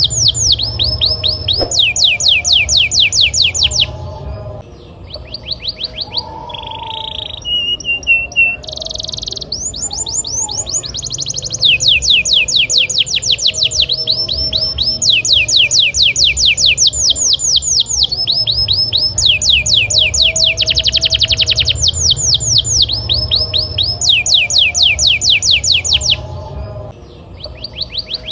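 Canary singing gacor, with no letting up: long rolling trills, each phrase a rapid run of the same falling note repeated about six times a second. It switches from one trill to the next after brief pauses.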